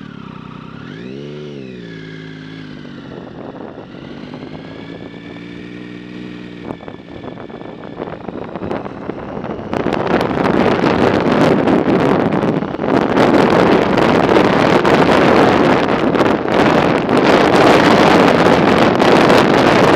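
An engine revs up and back down, then hums steadily for a few seconds and stops. About ten seconds in, loud wind buffeting on the microphone takes over.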